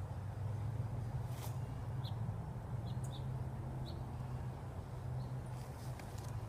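A few short, high bird chirps over a steady low hum, with a sharp tap about a second and a half in.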